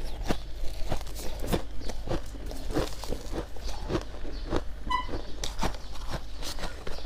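Close-up chewing of white humidifier frost: a string of sharp crunches at uneven spacing as the frost is bitten and crushed between the teeth. A brief high tone sounds about five seconds in.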